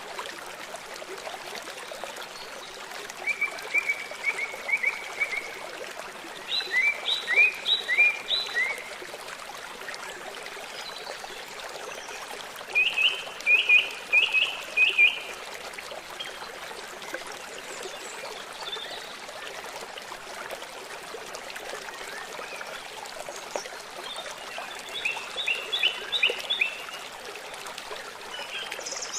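Steady rush of a forest stream, with a bird calling four times in short series of rapid, repeated high chirps.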